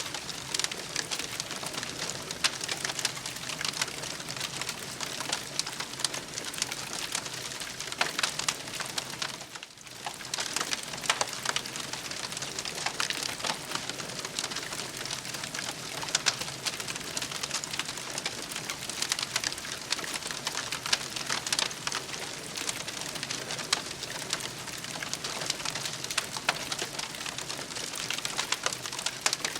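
Campfire crackling and hissing steadily, with a dense stream of small pops and snaps; it briefly drops away about ten seconds in.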